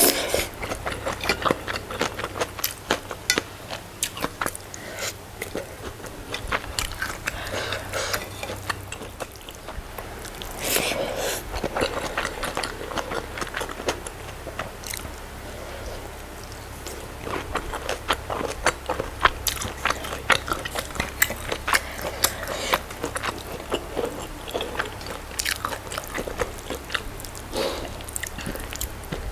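Close-miked chewing of rice and goat satay, full of small sharp mouth clicks, with louder bites now and then.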